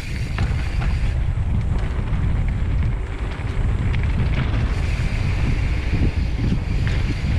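Wind buffeting the microphone of a camera on a mountain bike riding down a dirt trail, over a steady low rumble of the tyres and ride, with scattered sharp clicks and rattles from the bike.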